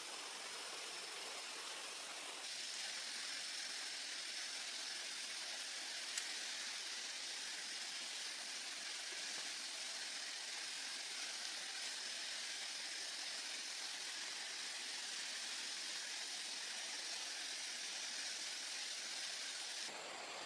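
Steady high-pitched hiss of jungle ambience with a faint steady whine over it, growing slightly louder a couple of seconds in. There is a single sharp click about six seconds in.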